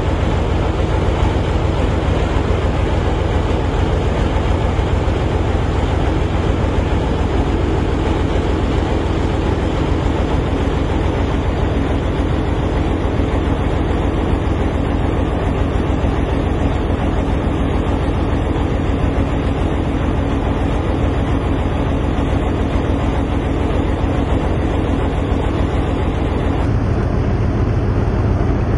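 Loud, steady low rumble of a large machine running, with a faint steady hum over it; the sound changes abruptly near the end.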